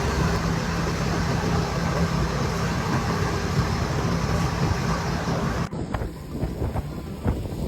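An engine runs steadily with a low hum over a broad rushing noise. About six seconds in it cuts off abruptly, giving way to quieter background sound with a few light knocks.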